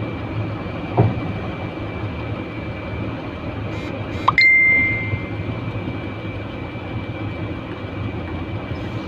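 Truck engine idling steadily, with a single knock about a second in. About four seconds in there is a click and a short electronic beep.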